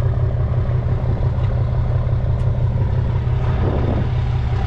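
Truck engine idling steadily, a deep, even low drone.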